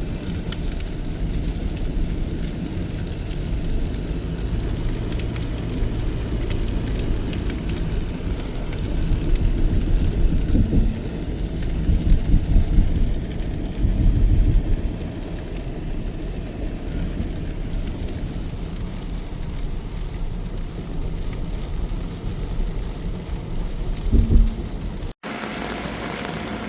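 Steady rain with heavy low rumbling underneath, swelling louder several times around the middle and once more near the end, then breaking off abruptly.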